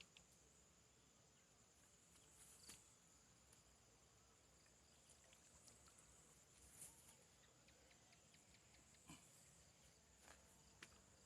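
Near silence: faint outdoor background with a steady high-pitched whine and a few soft scattered clicks.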